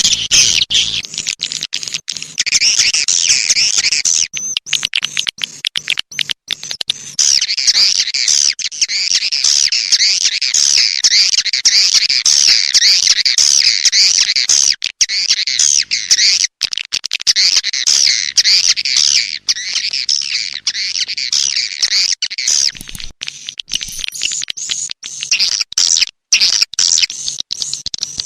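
Swiftlets (walet) calling in a dense, continuous twittering of high, wavering chirps, mixed with many quick sharp clicks. This is a rainy-season swiftlet call recording of the kind played to draw swiftlets to a nest house.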